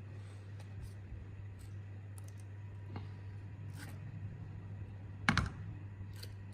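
Scattered light clicks and taps of small parts or tools being handled, with one sharper knock about five seconds in, over a steady low hum.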